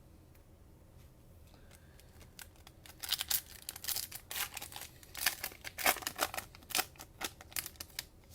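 Crinkling and rustling of a cellophane trading-card pack wrapper and cards being handled. A quiet stretch comes first; from about three seconds in, a run of sharp crackles lasts to near the end.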